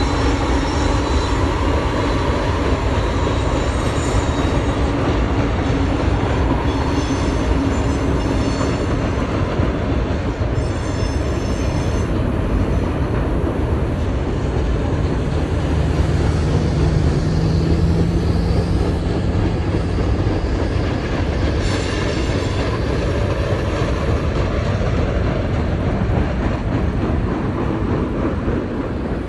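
Freight train led by CSX diesel locomotives rolling across a trestle bridge: a steady rumble of engines and wheels, with a low engine drone and brief high-pitched wheel squeals a few times along the way.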